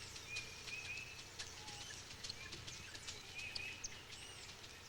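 Faint natural ambience of several birds calling: short chirps and arching high whistles, with brief whistled notes and scattered clicks over a light hiss.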